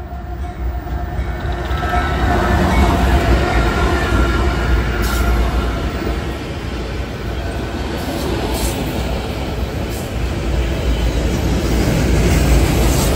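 Freight train passing close by: the lead diesel locomotive goes past, then a string of autorack cars rolls by with a steady heavy rumble of wheels on rail. The sound swells over the first couple of seconds as the locomotive comes level.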